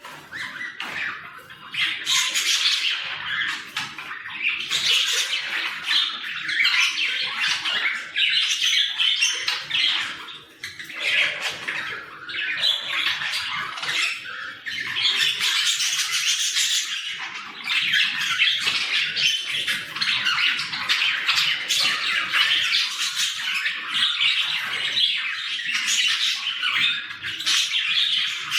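Several budgerigars chattering and squawking at once in a continuous stream of short, high calls, the noisy chatter of budgies playing and play-fighting.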